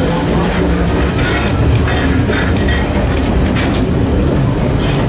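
Running noise of a moving passenger train heard from the gangway between carriages: a steady low rumble of wheels on rail with irregular clicks, knocks and rattles.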